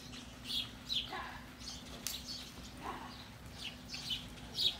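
Small birds chirping over and over: short, high, falling chirps about twice a second, with a few lower calls mixed in, over a faint steady hum.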